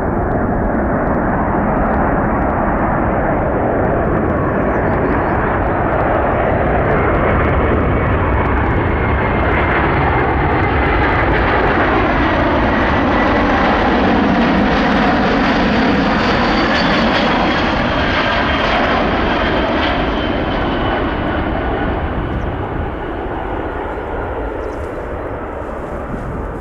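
Boeing C-17A Globemaster III jet passing by, its four turbofan engines running loud, growing to loudest about halfway and easing off toward the end, with whining tones slowly falling in pitch as it goes past.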